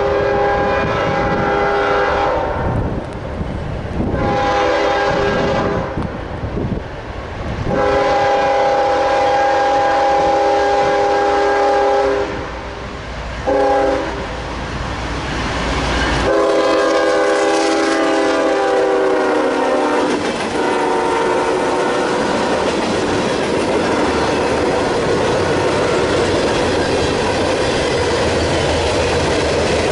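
CSX freight locomotive's multi-chime air horn sounding a series of blasts, ending in long, long, short, long, the grade-crossing warning. The pitch of the last long blast drops as the locomotive passes. It is followed by the steady rumble and clickety-clack of the freight cars rolling by.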